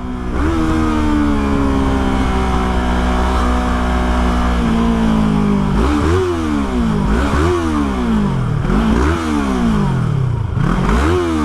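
Yamaha R3 parallel-twin motorcycle engine slowing down for a stop, its pitch falling steadily over the first few seconds, then idling briefly before four throttle blips, each revving up and dropping back, about one every second and a half.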